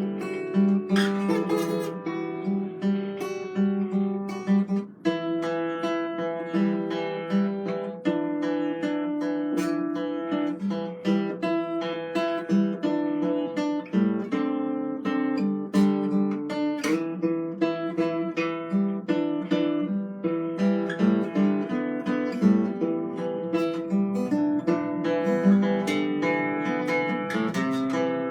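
Acoustic guitar improvisation: plucked and strummed chords with ringing notes, played continuously.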